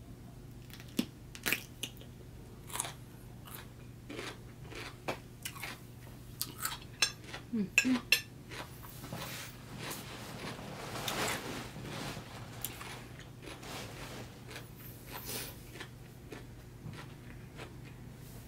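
Crunchy bites and chewing of a raw Persian cucumber, a string of sharp crunches with the loudest about seven to eight seconds in.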